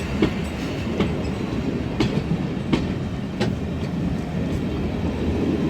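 A train hauled by a Class 33 diesel locomotive pulling out, its wheels clicking over the rail joints roughly every second over a steady low rumble.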